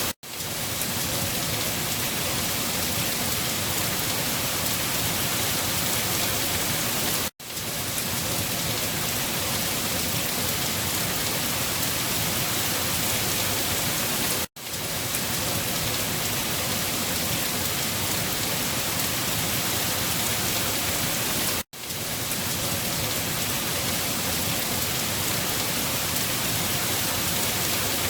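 Steady rain, a dense even hiss. It cuts out for an instant three times, about seven seconds apart.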